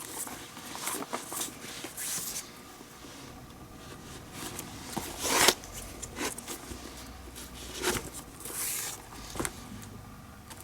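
Leather lace being pulled through the lacing holes of a Rawlings Gamer baseball glove: several short rasping pulls, the strongest about two, five and a half and eight and a half seconds in, with small clicks and knocks from handling the glove.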